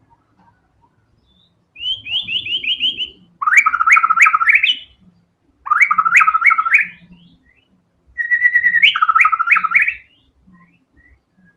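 White-rumped shama (murai batu) singing in rapid-fire bursts. About two seconds in comes a quick run of high down-slurred notes, then two loud phrases of fast repeated notes, and a last phrase that opens with a short held whistle before another fast run.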